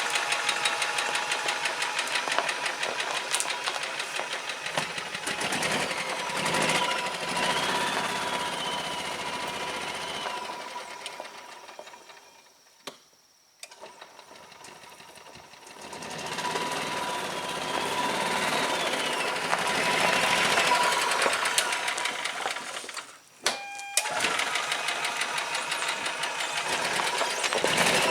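Gas Yamaha golf cart engine running as the cart is driven after its starter/generator repair. About halfway through the engine dies away to near quiet with a single click, then starts and runs up again a few seconds later, with a brief dip and click near the end.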